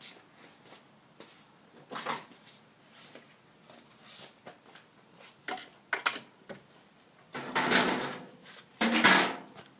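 Hand tools and engine parts being handled while the spark plugs are put back in: scattered clicks and light knocks, then two louder rattling scrapes near the end, about a second apart. The engine is not running.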